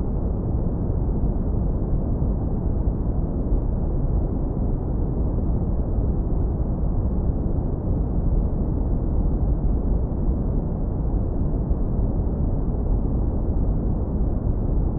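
Steady, deep brown noise, heavily low-pass filtered so that only a warm low end remains, with no treble.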